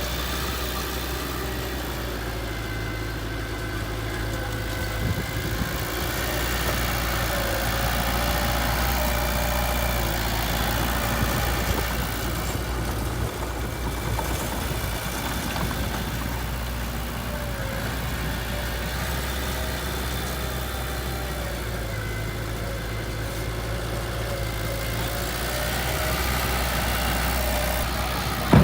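Heavy earthmoving machine's diesel engine running steadily at a low, even note, picking up slightly a few seconds in and again near the end.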